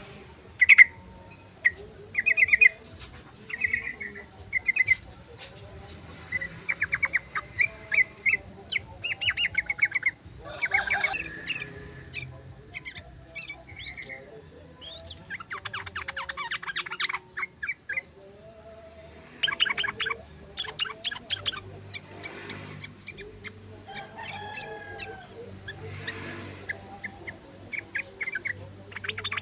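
Yellow-vented bulbuls (trucukan) singing: short phrases of rapid chattering notes, one after another every second or two. There is a brief rustle about ten seconds in.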